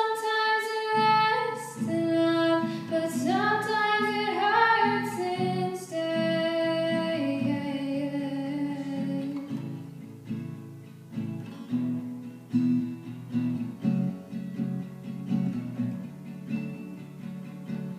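Acoustic guitar played under a female voice singing a sliding run with no clear words. The voice fades out about seven seconds in, leaving the guitar playing on its own.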